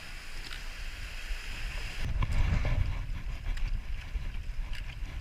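Strong mountain wind buffeting the microphone in low, gusty rumbles that grow louder about two seconds in.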